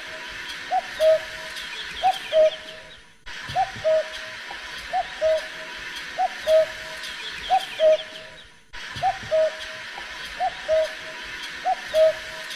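A bird repeating a short two-part call, a quick upswept note then a brief held note, about once a second, over a background of faint small chirps. The sound fades out and cuts back in abruptly twice.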